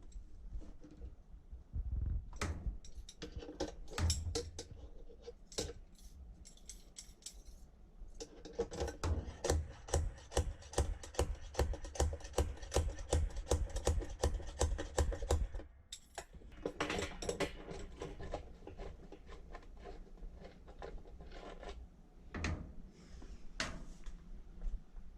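Metal tools and parts clinking and knocking while work goes on at a washing machine's wash plate, with a run of rapid rattling strikes lasting about seven seconds midway.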